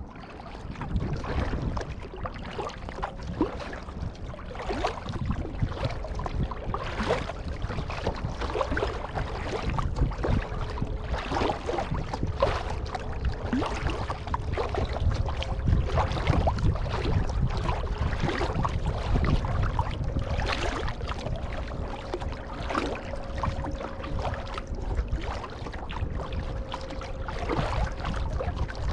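Kayak paddling: the paddle blades dip and splash and water laps against the hull in an irregular run of splashes over a low rumble.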